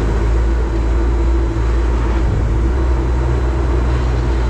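Scrap metal baler's engine running steadily: a loud, even low drone with a steady tone above it.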